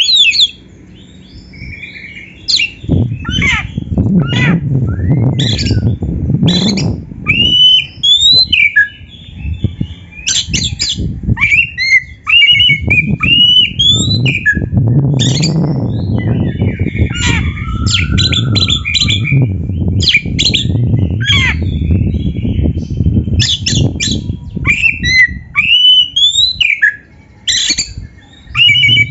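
Oriental magpie-robin (kacer) singing in quick varied phrases, short gliding whistles mixed with harsh, scratchy notes, over a low rumbling background noise from about three seconds in.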